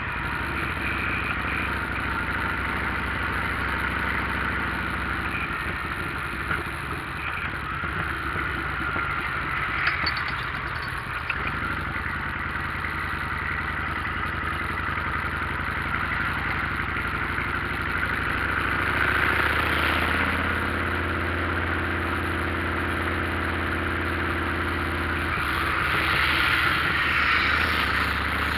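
Motorcycle engine running steadily under the rush of wind and road noise while riding. A little past the middle, the engine note grows fuller and louder for several seconds, then settles back.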